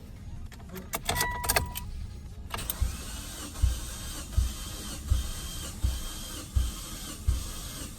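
Starter motor cranking a Mitsubishi Evo X engine during a compression test on cylinder four, a steady whir with a low thump about every 0.7 seconds as the gauged cylinder comes up on compression. A few clicks and a short two-tone beep come just before the cranking starts.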